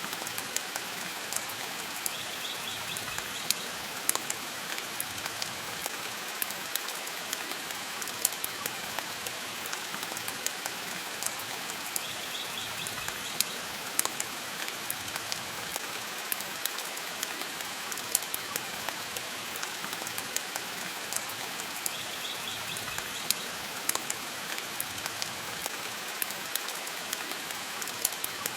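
Steady rain hiss mixed with a fireplace, frequent short sharp crackles scattered through it. A faint short high chirp recurs about every ten seconds.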